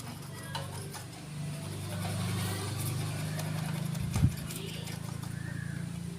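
A motor or engine running steadily with a low hum, with one sharp knock about four seconds in.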